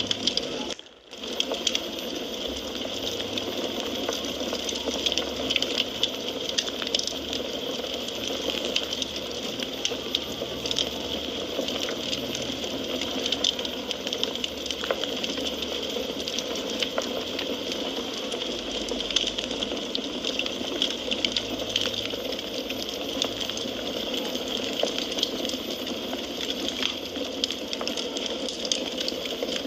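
Wood fire crackling in a fireplace: a steady hiss dotted with many small pops and snaps. The sound briefly drops out about a second in.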